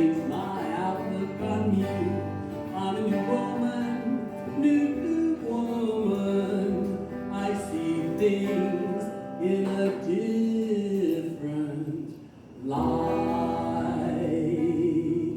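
A woman singing a slow ballad with acoustic guitar accompaniment, closing the song. About 12 s in there is a brief pause, then a long held note with vibrato.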